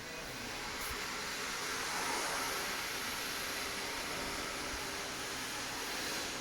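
CNC router spindle cutting stone: a steady hiss that swells a little in the middle and eases toward the end.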